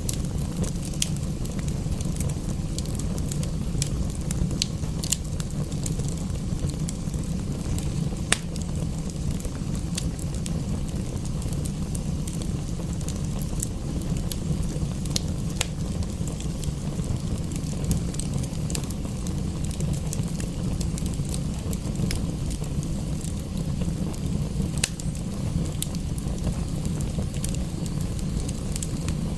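Wood fire crackling in a fireplace, with sharp pops coming at irregular moments, over a steady low rumble and a faint even hiss.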